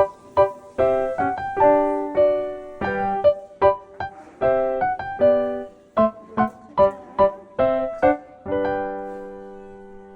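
Background music: a solo piano playing a light melody of separate struck notes, ending on a held chord that fades out near the end.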